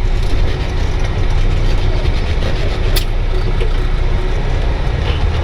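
Heavy tow truck's diesel engine running steadily with a deep low rumble, and a single sharp click about three seconds in.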